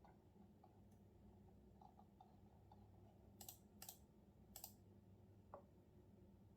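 Faint, sparse typing on a computer keyboard: scattered light key clicks, with three louder clicks between about three and a half and four and a half seconds in.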